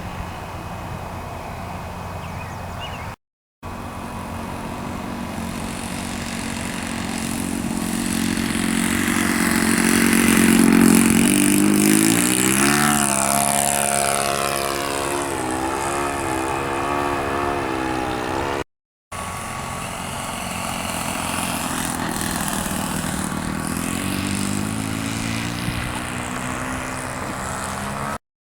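Saito .82 four-stroke glow engine of an RC model plane running in flight. It grows louder until about ten seconds in, then its pitch drops as the plane passes by, and later it rises in pitch again. The sound cuts out briefly twice.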